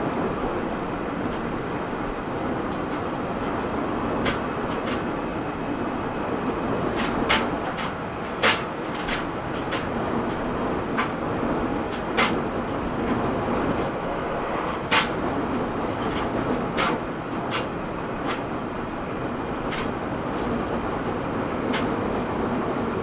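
Cabin running noise of an E127 series 0 electric multiple-unit train under way: a steady rumble with scattered sharp clicks and knocks.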